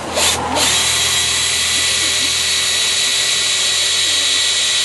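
A last rasping stroke, then a handheld electric drill starts about half a second in and runs steadily under load with a high whine.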